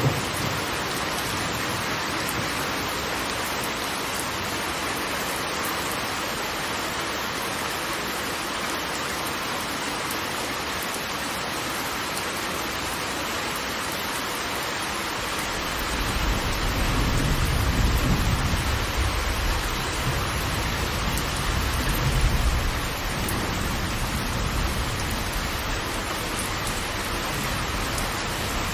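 Steady rush of falling water, even and unbroken. A deep rumble swells in a little past halfway and lasts several seconds before easing back.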